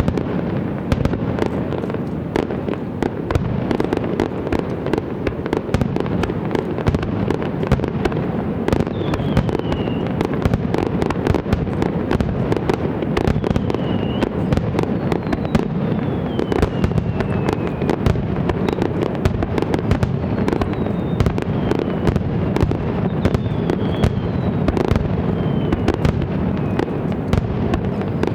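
Aerial fireworks display: a continuous dense barrage of rapid bangs and crackling, with several short whistles falling in pitch in the second half.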